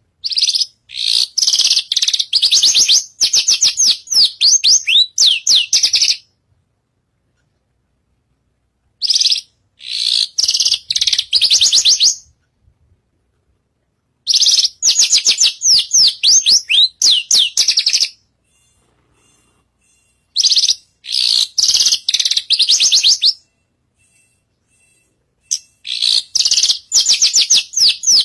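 Javan bush lark (branjangan) singing hard in five bouts of fast, high chattering notes, each lasting a few seconds, with short silent pauses between them.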